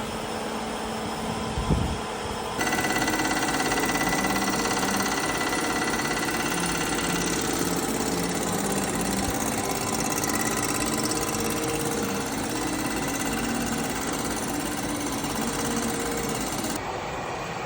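Shop machinery running steadily, a dense mechanical noise with a few held tones. It starts abruptly about two and a half seconds in and drops away shortly before the end.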